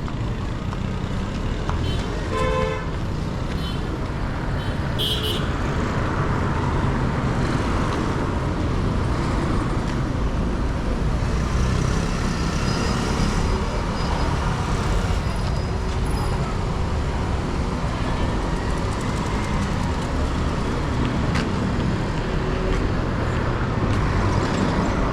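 Steady city street traffic noise, with a short car horn toot about two and a half seconds in and a brief high-pitched beep a few seconds later.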